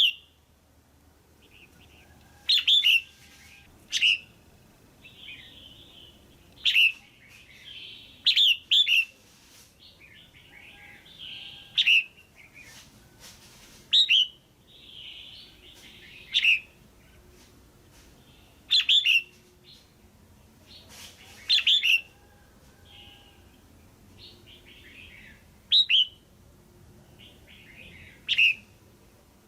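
Female red-whiskered bulbul calling: short, sharp chirps repeated every one to three seconds, with softer chatter between them. It is a call keepers play to stir up male bulbuls or to pair birds.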